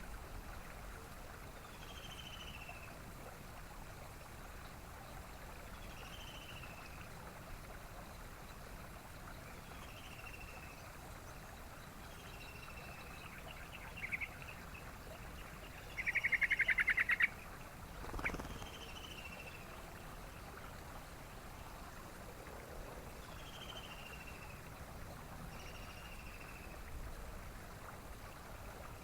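Yellow-vented bulbul calls: a short falling note repeated about every two seconds, and a loud, rapid chattering trill lasting about a second a little past the middle, over a steady background hiss.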